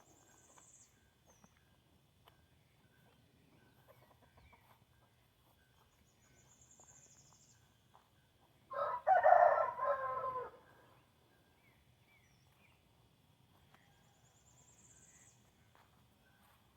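A rooster crowing once, about two seconds long, around the middle. Faint high chirping trills sound a few times.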